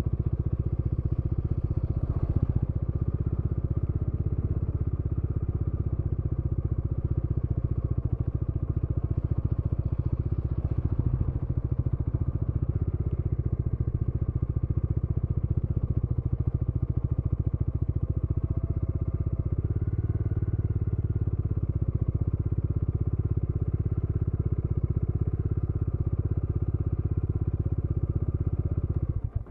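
Motorcycle engine running steadily under way, an even low pulsing note.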